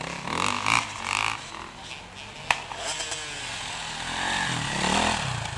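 Two-stroke-style motocross bike engines revving as bikes pass, rising in pitch and growing louder to a peak near the end before falling away. There is a sharp snap about two and a half seconds in.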